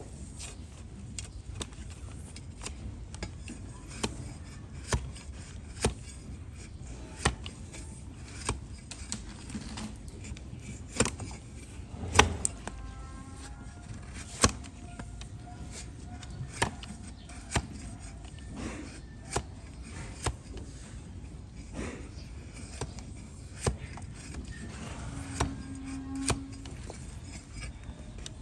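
Hoof-trimming blade paring horn from a donkey's overgrown hoof, a sharp cutting crack roughly once a second at an uneven pace.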